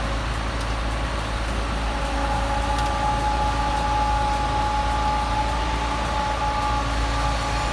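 Heavy logging truck running: a steady engine and road noise with a faint constant whine.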